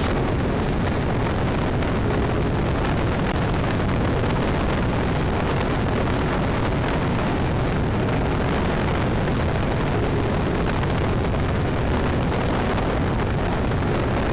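Steady rush of wind and road noise with the engine of a scooter being ridden at speed.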